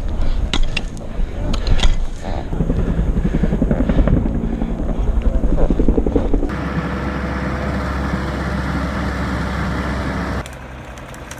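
Heavy vehicle engines running, with knocks and clatter over the engine in the first part. The sound changes abruptly about six and a half seconds in to a steadier, noisier engine run, and again about ten seconds in to a quieter, steady engine hum.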